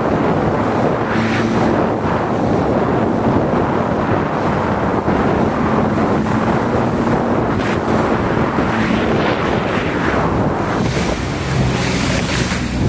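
Jet ski running at speed, with heavy wind buffeting the microphone and water rushing past the hull. The engine's faint steady hum sits under the noise, and brighter bursts of spray come about a second and a half in and twice near the end.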